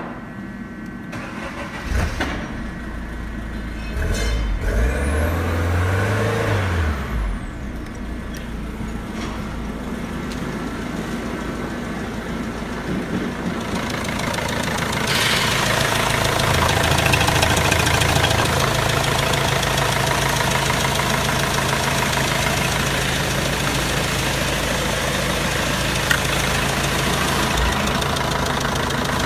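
Citroen C5's 1.6 HDi turbodiesel engine starting and running. It catches about four seconds in and briefly revs up and back down, then settles into a steady idle. It grows louder for a few seconds past the middle before settling again.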